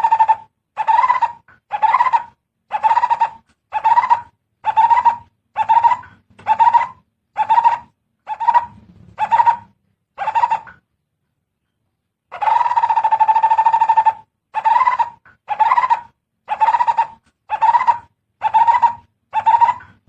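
Barbet calling: a long trilled note near 1 kHz followed by a series of about ten short hollow notes, roughly one a second; after a pause of about a second and a half the same sequence starts again.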